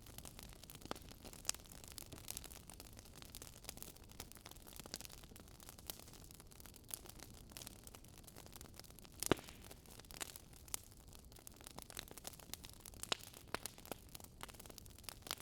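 Burning firewood crackling: scattered irregular small pops over a soft low hiss, with one louder pop about nine seconds in.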